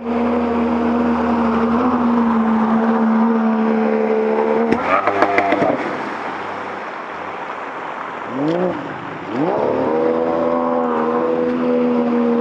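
Engine of a Frigate (Фрегат) all-terrain vehicle running at a steady speed, with a spell of uneven, rattling running about five seconds in. It then drops to a lower note and revs up twice before settling back to steady running.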